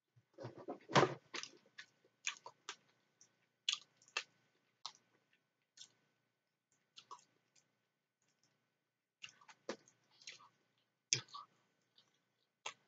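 Close-up chewing of macaroni salad: soft wet mouth sounds and small clicks coming in irregular spells, with a lull of a few seconds in the middle.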